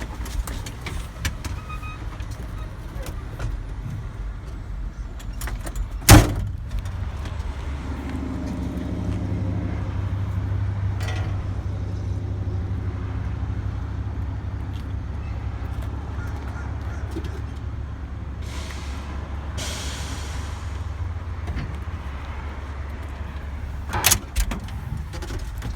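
A truck's cab door slams shut about six seconds in, the loudest sound, and a second door knock comes near the end, over a steady low rumble.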